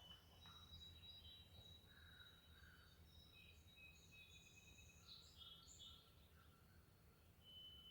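Several small songbirds singing and calling at once: clear whistled notes and short trills overlapping, some held for a second or more, over a faint low hum.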